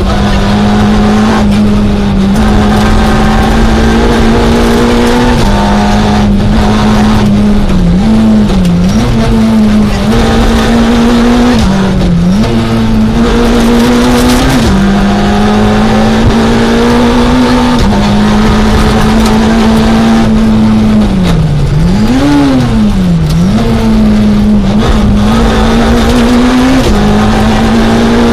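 Citroën Saxo A6 rally car's four-cylinder engine heard from inside the cabin, pulling hard under load. Its pitch climbs slowly and steps down at each quick gear change, with several brief dips and rises where the throttle is lifted and reapplied for bends.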